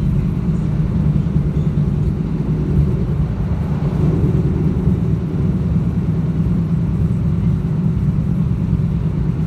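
Commuter train running at speed, heard from inside a passenger car: a steady low rumble.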